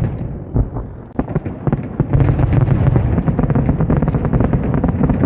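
Aerial fireworks bursting: a few separate bangs at first, then from about two seconds in a dense, louder barrage of rapid bangs and crackles.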